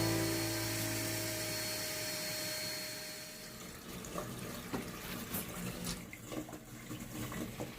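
Water running, with a faint steady rush and a few light clicks; background music fades out over the first few seconds.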